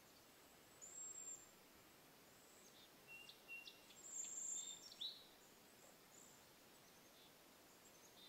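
Faint, high-pitched bird chirps and whistles over quiet outdoor hiss: one short call about a second in, then a cluster of chirps from about three to five seconds in.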